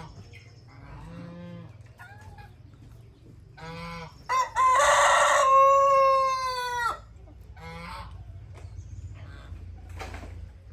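Rooster crowing once, a loud long call starting about four seconds in and falling in pitch at its end, with shorter chicken calls before it over a steady low hum.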